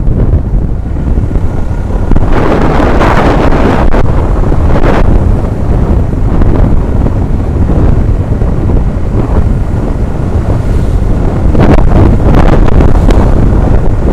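Heavy wind buffeting the microphone of an action camera on a moving truck: a loud, steady low rumble with stronger gusts now and then.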